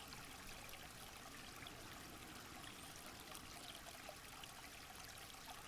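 Faint, steady running water of a stream, an even trickling with no other events.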